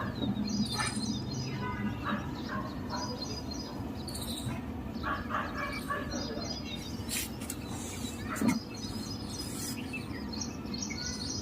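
Birds chirping in short, scattered calls over a steady low background, with one brief louder sound about eight seconds in.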